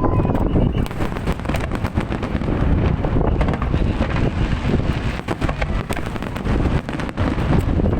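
Fireworks display: a rapid, continuous string of bangs and crackles from aerial shells bursting, over a low rumble of wind on the microphone.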